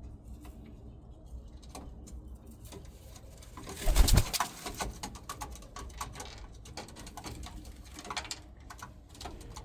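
Pigeons cooing, with scattered small taps and clicks and one loud rustling thump about four seconds in.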